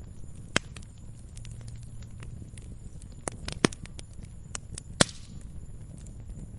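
Wood fire burning in a fireplace, a low steady rumble with scattered crackles and sharp pops, the loudest about half a second in, at about three and a half seconds, and at about five seconds.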